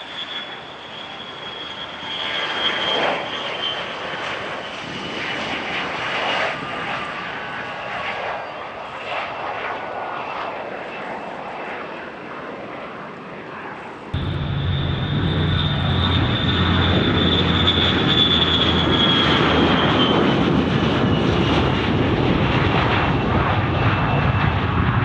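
Boeing MQ-25 Stingray drone's Rolls-Royce AE 3007N turbofan running with a high whine that slowly falls in pitch. About 14 seconds in, the sound cuts abruptly to a louder stretch with a deep rumble under a second falling whine.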